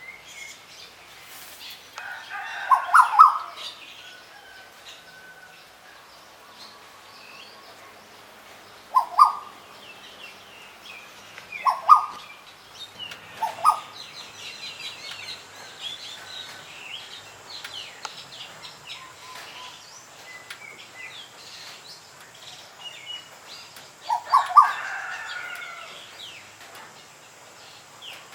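Several wild birds singing and calling. A louder bird gives clusters of short, low notes about two seconds in, around nine, twelve and thirteen seconds, and again near the end, over a steady background of faint, higher chirps from other birds.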